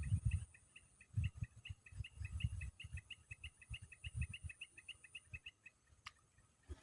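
A bird calling a fast, even series of double chirps, about five a second, that stops near the end, over irregular low thumps.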